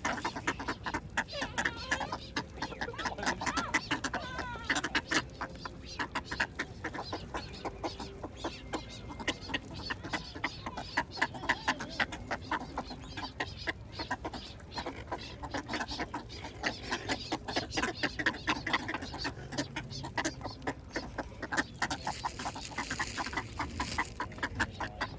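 A group of ducks calling, with many short calls in quick succession.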